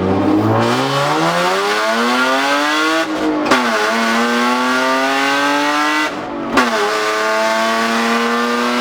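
Straight-piped BMW E36 exhaust under hard acceleration, climbing through the revs and shifting up twice, about 3 and 6 seconds in. Each shift drops the pitch with a sharp crack. It is very loud.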